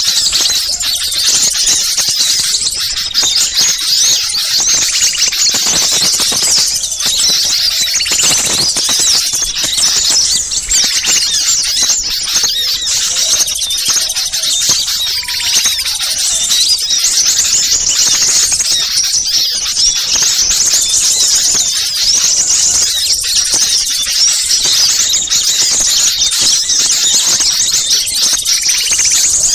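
Noisy chorus of many small birds chirping and trilling at once, a dense high-pitched twittering without pause: a bird-lure recording of agitated small birds meant to draw wild birds in.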